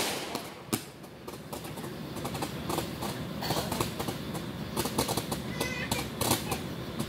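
Fireworks crackling in rapid, irregular pops, with one louder bang just under a second in.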